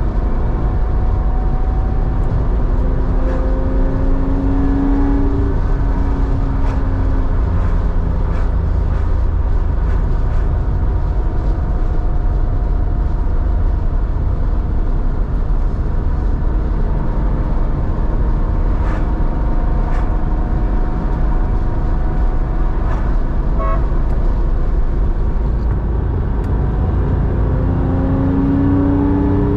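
Porsche 911's air-cooled flat-six, enlarged to 3.4 litres, running through a two-in-one-out muffler while driving: the engine note rises in pitch over the first few seconds, holds steady while cruising, then rises again near the end, over a heavy low rumble.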